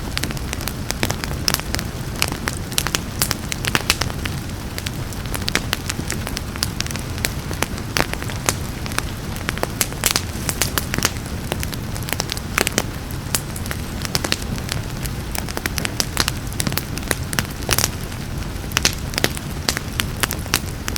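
Wood fire crackling in a fireplace, with frequent irregular sharp pops and snaps over a steady low rumble, blended with steady rain.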